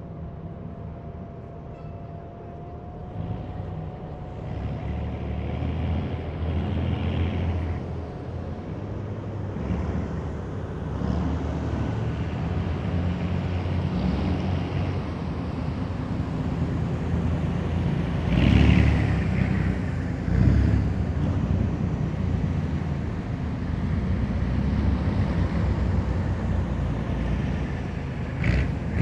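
Heavy military vehicles driving past in a column, their engines making a deep, steady drone. The drone grows louder a few seconds in and swells as individual vehicles pass, loudest about two-thirds of the way through and again near the end.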